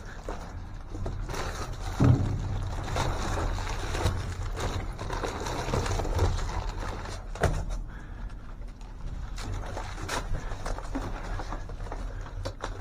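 Items being rummaged and handled: a run of knocks and rustles with two louder thumps, one about two seconds in and one past seven seconds, over a steady low rumble.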